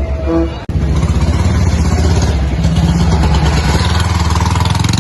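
Vintage vehicle engine running loudly with a low, pulsing rumble. It comes in abruptly under a second in, replacing a few short repeated pitched tones.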